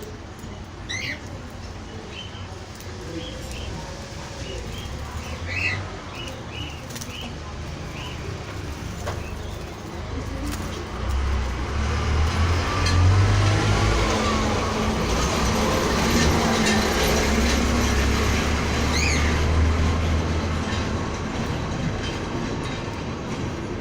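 Birds chirping in short, rising calls. About halfway through, a low rumble swells up, louder than the birds, runs for about ten seconds and then eases off, with a few more chirps heard over it.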